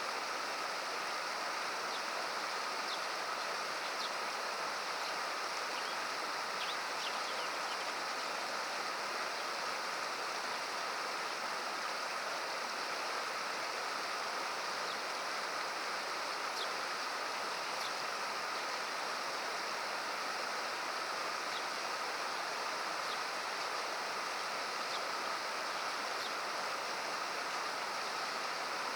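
Steady rushing of a rocky gorge river, water running over and between boulders, with a few faint short high chirps over it.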